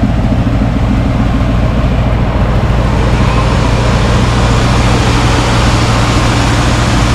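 A car running at a steady pace, its engine a constant low hum under even road and wind noise, with no revving or change in pitch.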